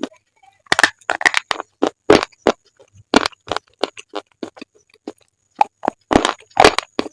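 Close-miked biting and chewing of brittle slate: a rapid, irregular series of sharp crunches and snaps, starting just under a second in.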